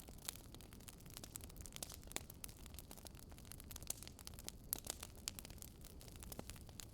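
Wood fire crackling: irregular sharp pops and snaps scattered over a soft, steady low rumble.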